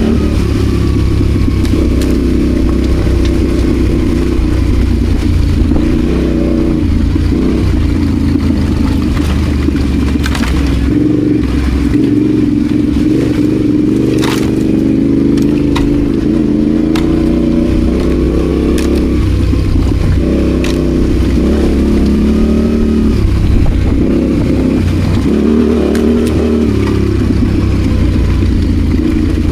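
Adventure motorcycle engine running under load off road, its pitch rising and falling with the throttle, with several sharp knocks and clatters mixed in, most of them in the middle stretch.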